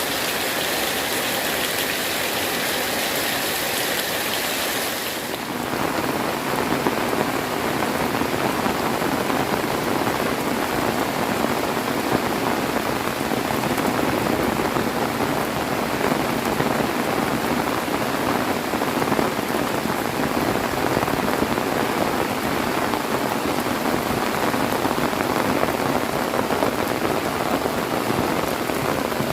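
Heavy rain pouring steadily, drops pattering densely on surfaces. About five seconds in, the sound changes from a high hiss to a fuller, denser patter.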